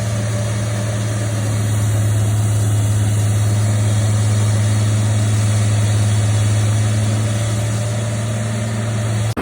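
Large diesel farm tractor engine running at a steady speed, a deep, even hum. It cuts off abruptly just before the end as a different machine sound takes over.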